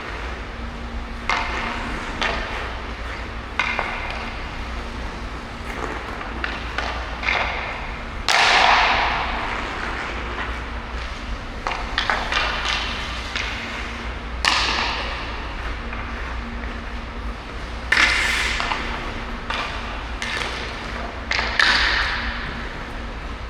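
Ice hockey skating: skate blades scraping the ice in several hissing bursts, with sharp knocks and pings of stick and puck in between, over a steady low hum.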